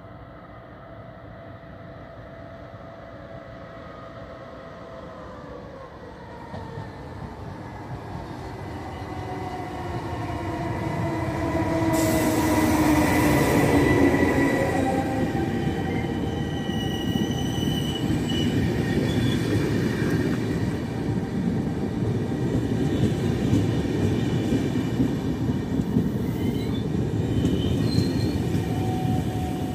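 Double-deck electric regional train arriving at a station platform. Its whine falls in pitch as the train nears and grows loud as the front passes, then the wheels and brakes go on rumbling with high brake squeals while it slows to a stop.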